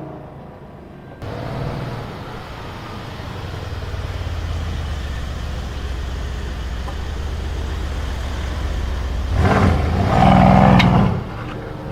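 Mercedes car exhaust running with a steady low rumble that starts about a second in, then surges louder for a second or two near the end before dropping back.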